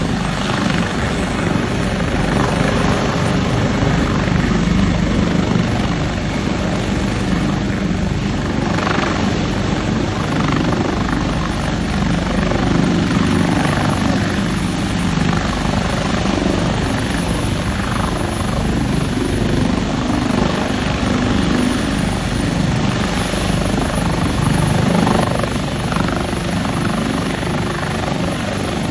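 AgustaWestland AW139 twin-turbine helicopter running loudly and steadily, its rotor and turbines making a dense, even din with a low hum.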